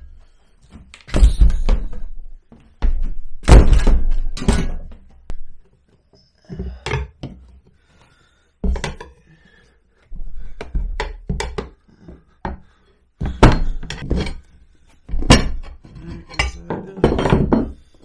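A dozen or so irregular heavy thuds: blows to a scooter tire to break its bead free of the wheel rim.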